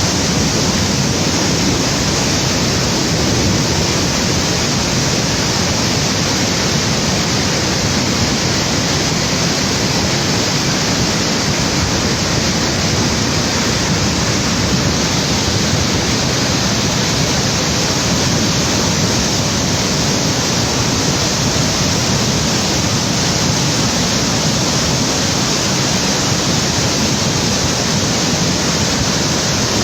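Fast, flood-swollen river water rushing steadily, an even, unbroken noise with no change in level.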